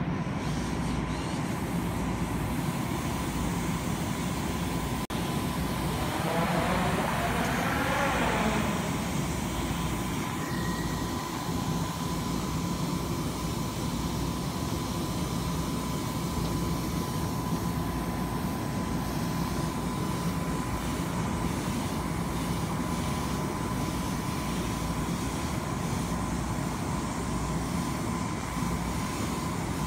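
Long Island Rail Road M7 electric train cars at a station platform, giving a steady hum and rumble with a thin high tone running under it. For a few seconds about six seconds in, a cluster of sweeping tones rises over the hum and the level goes up a little.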